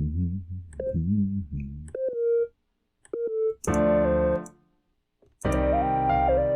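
Square-wave lead synth playing a simple counter-melody on the white keys: a couple of short notes, then two longer held notes that step in pitch. A low wavering tone is heard in the first two seconds.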